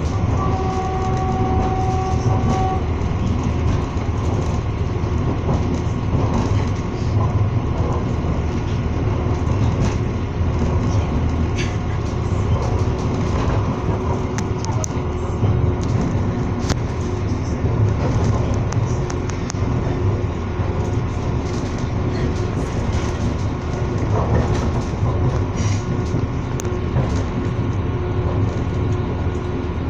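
Passenger train running at speed, heard from inside the carriage: a steady rumble of wheels on the rails with scattered clicks and rattles. A brief steady tone sounds about a second in.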